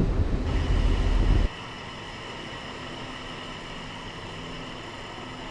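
Wind buffeting the microphone, cut off abruptly about a second and a half in, followed by a steady car-ferry engine hum with a faint high whine.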